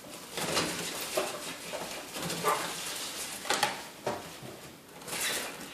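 A bird trapped in the metal vent above a microwave scratching and fluttering, heard as irregular scraping and rustling bursts.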